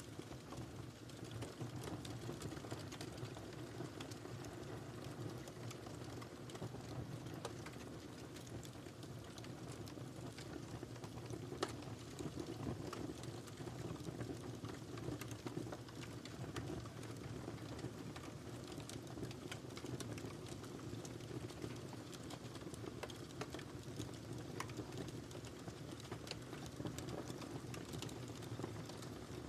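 Wood fire burning in a fireplace: a steady low rumble of flames with frequent small crackles and pops, one sharper pop about twelve seconds in.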